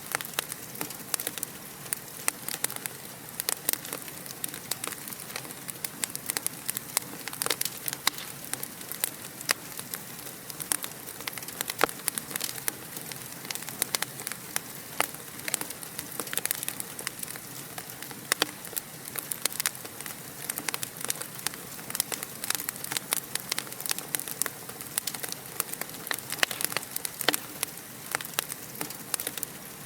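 Fire crackling in a fireplace: a steady hiss with many irregular sharp pops and snaps.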